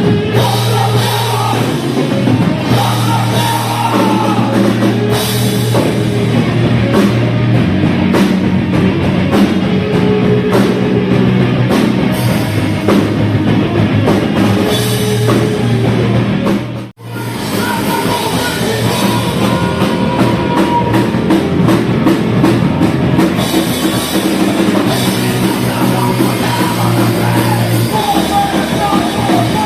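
Crossover thrash metal band playing loud and fast, with drum kit, distorted guitars and vocals. The sound breaks off abruptly for a moment about seventeen seconds in, then resumes.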